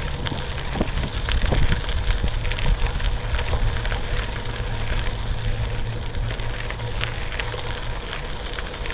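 Bicycle riding along a trail: wind rumbling on the microphone and tyres rolling with a steady crackle of grit and small clicks.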